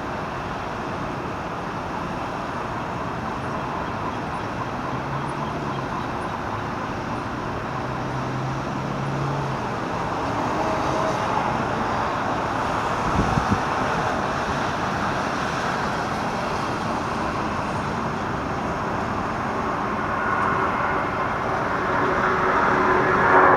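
Steady rushing engine and traffic noise that swells near the end, with a short knock about thirteen seconds in.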